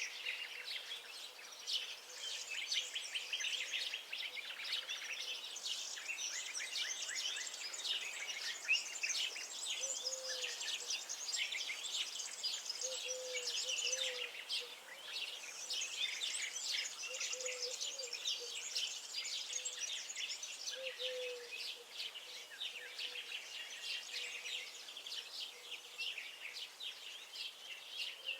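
Many songbirds chirping and twittering at once in a dense, unbroken chorus, with a faint short low call repeating every few seconds underneath.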